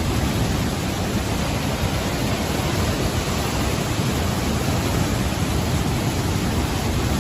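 Steady, loud rush of water with no breaks or changes.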